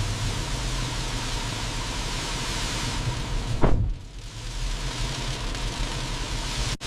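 Steady hiss of heavy rain, with a brief louder whoosh about three and a half seconds in.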